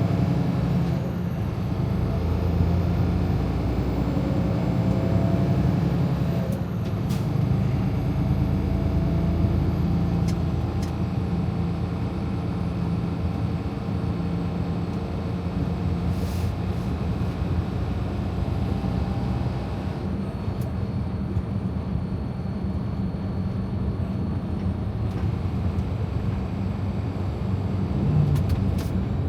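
Steady engine and road rumble inside a Freightliner Cascadia semi-truck's cab while driving, with the engine note shifting slightly a few times.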